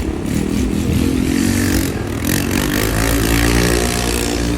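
A motor vehicle engine running and revving, its pitch rising and falling.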